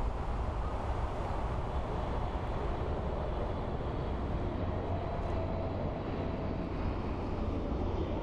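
Steady jet rumble of a Boeing 747-8 freighter's four GEnx engines as it comes in to land, with a faint whine rising out of it in the second half.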